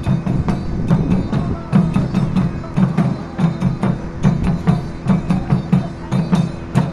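Japanese taiko drums played by an ensemble: fast, rhythmic strikes on the drumheads with sharp wooden clicks between the beats.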